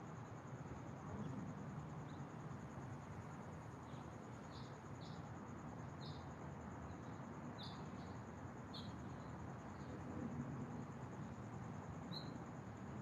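Small birds giving short, high chirps, one at a time and spaced irregularly, over a steady low outdoor hiss and a thin, steady high-pitched tone.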